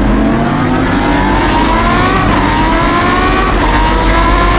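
A car engine revving up through the gears: the pitch climbs, drops back at a shift about two seconds in and again about three and a half seconds in, then climbs again.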